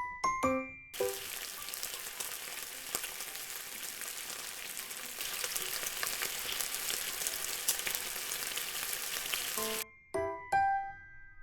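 Beef sizzling and crackling on a hot grill, a steady dense sizzle that starts about a second in and stops suddenly near the end, with a few short music notes at the start and end.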